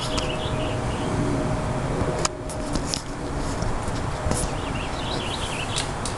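A small songbird chirping short warbling phrases, once near the start and again about four to five seconds in, over a steady low background rumble, with a few sharp clicks.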